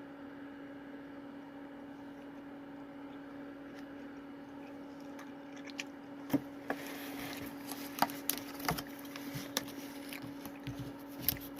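Steady low electrical hum. From about six seconds in, irregular clicks, taps and rustling of something being handled.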